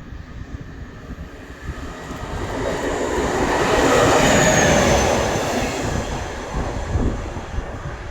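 A train passing by: its rolling noise builds up to a peak about halfway through and then fades, with a thin high squeal at its loudest point.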